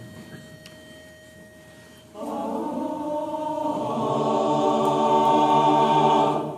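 After a short hush, a chorus of voices comes in about two seconds in, singing a long held chord that grows louder and then breaks off just before the end.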